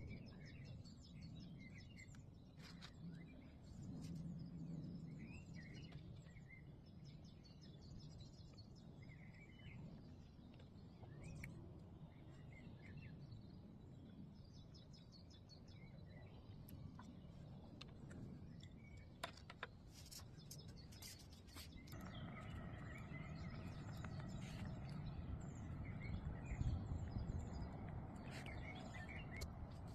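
Faint birdsong: scattered short chirps over a low outdoor rumble. About two-thirds of the way through, a steadier low hum joins in.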